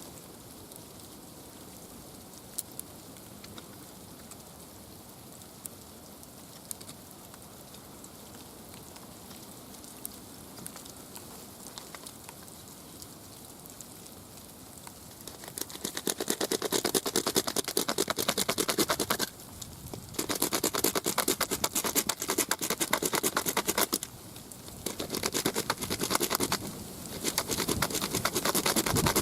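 Faint background with a few scattered clicks. About halfway through, rapid back-and-forth scraping strokes begin on a wooden arrow shaft, as when a nock is cut. They come in three bouts with short pauses between.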